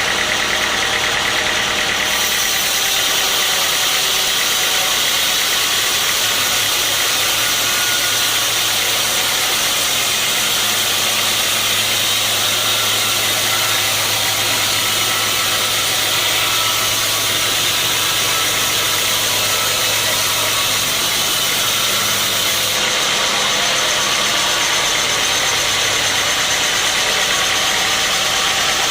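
Sawmill machinery running with a steady, loud engine-like drone. The tone shifts slightly a couple of seconds in and again near the end.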